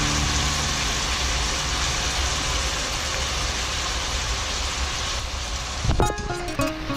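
Lamb, onion and garlic sizzling steadily in a stainless steel pot as the soy sauce hits the hot meat. The sizzle breaks off near the end.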